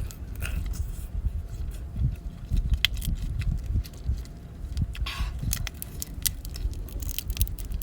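Scattered clicks, crackles and scraping of a large lobster's shell being broken open and pulled apart, over a low rumble of handling noise.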